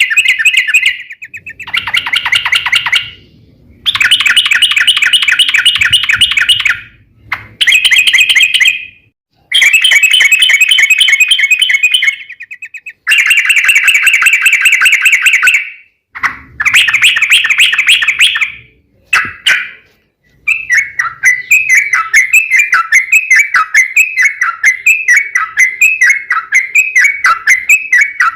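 Yellow-vented bulbul (trucukan) singing: loud, very fast rolling trills in bursts of one to three seconds with short pauses between, then from about twenty seconds in a continuous run of quick chirping notes.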